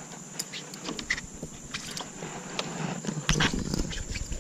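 Scattered clicks and knocks of a freshly caught largemouth bass and its lure being handled while the hooks are worked free, with a low rumble setting in about three seconds in.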